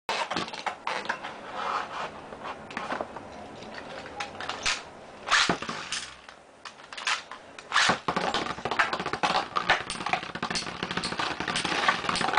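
Two metal-wheel Beyblade spinning tops whirring and scraping in a plastic stadium, with repeated sharp clacks as they collide. The hardest hits come about five and a half and eight seconds in, and the clashing eases off briefly between them.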